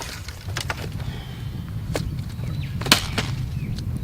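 A few sharp knocks of cut pieces of wood being handled, about four, the loudest near three seconds in, over a low steady rumble. No chainsaw is running.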